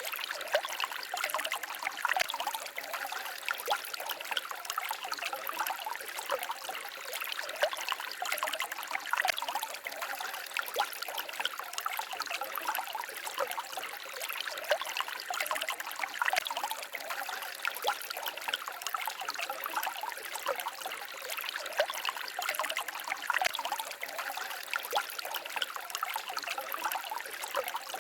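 Small stream trickling and babbling steadily over stones, with many small splashes in an even flow.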